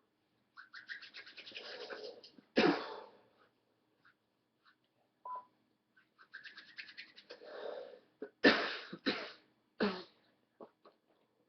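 Water bong with a crown percolator bubbling in rapid pulses as smoke is drawn through it, twice, each draw followed by coughing: one cough after the first and three after the second.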